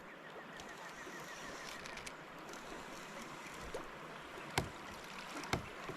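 Steady rush of river water, with a couple of sharp clicks about four and a half and five and a half seconds in.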